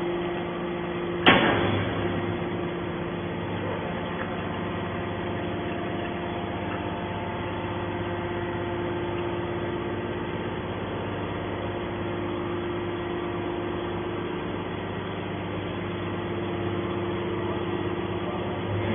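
Hydraulic scrap metal baler running with a steady, multi-toned hum, and a single sharp metallic clank about a second in.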